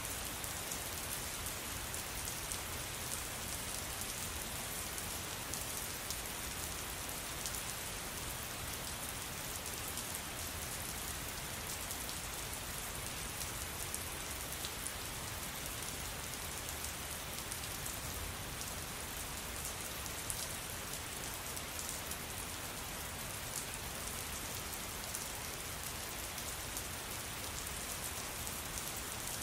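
Steady rain falling and pattering on a hard surface, a constant hiss filled with many fine drop ticks, with no thunder.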